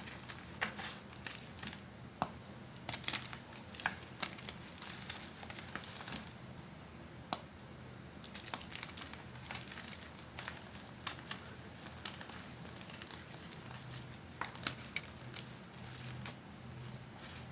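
Slabs of crunchy gym chalk being crushed and crumbled, giving irregular sharp crunches and cracks over a low steady hum.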